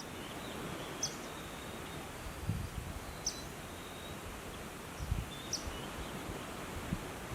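Outdoor nature ambience: a steady hiss of background noise with a short high chirp every two seconds or so, and a few soft low thuds.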